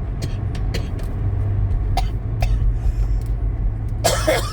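A steady low rumble with scattered faint clicks, and a woman coughing once, briefly, near the end.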